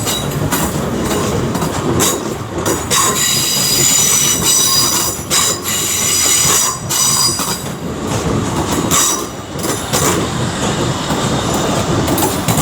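Class 350 Desiro electric multiple unit running slowly into the platform, its wheels squealing steadily and high over the track with repeated sharp clicks over the rail joints.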